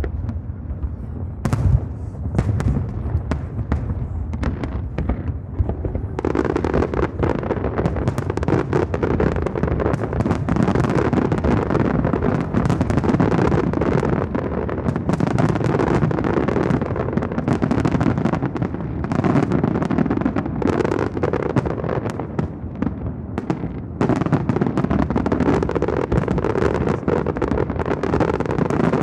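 Aerial fireworks bursting in quick succession: booms and crackles that thicken into a dense, almost continuous barrage about six seconds in, easing briefly near the end before picking up again.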